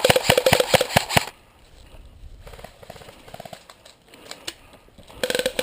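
Airsoft electric rifle (AEG) firing a rapid string of shots, about seven a second, with the gearbox whine under the clicks. It stops about a second in, and a second short burst comes near the end.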